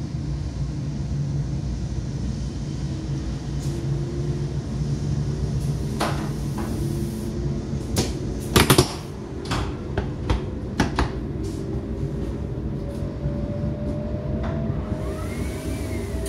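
Hokuriku Shinkansen train heard from inside the carriage as it pulls away from the station: a steady low rumble with a faint whine slowly rising in pitch as it gathers speed. A run of sharp clicks and knocks comes in the middle.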